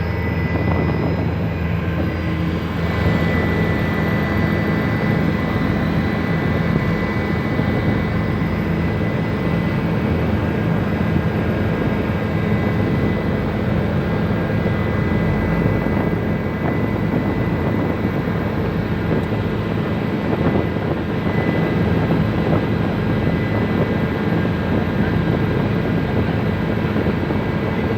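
Helicopter running steadily, its engine and rotor noise constant, with a thin high whine held over the top.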